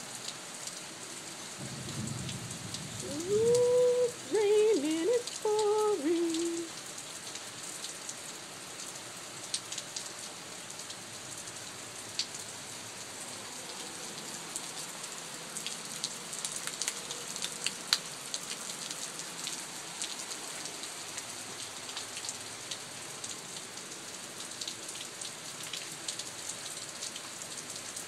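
Steady heavy rain falling, a continuous hiss with scattered sharp drips. About two seconds in there is a low rumble, then several short, gliding, whine-like calls over the next few seconds.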